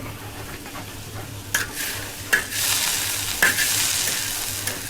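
Coffee beans being stirred in a hot roasting pan: a few sharp knocks of the stirring utensil against the pan, then a steady sizzling hiss from about halfway in.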